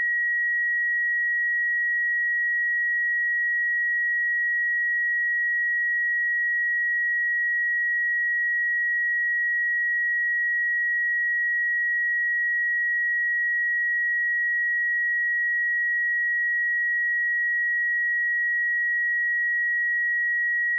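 A pure 1907 Hz sine-wave test tone, held steady at one pitch and level.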